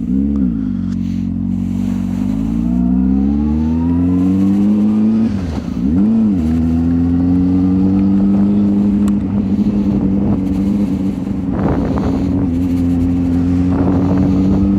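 Car engine pulling through the gears. The revs drop briefly at the start and again about six seconds in, climb steadily in between, then hold even.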